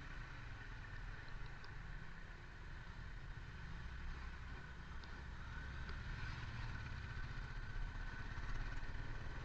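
A vehicle engine running low and steady, a continuous rumble with no revving.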